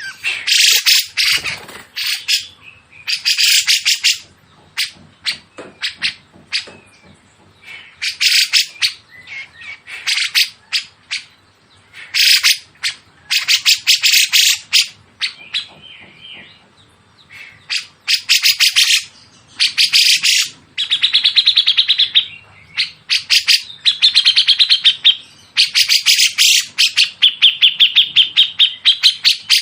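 Songbird song from a masteran recording: loud, harsh bursts of rapid-fire chattering notes, each about a second long and repeated every one to two seconds. In the second half come a few smoother trilling phrases.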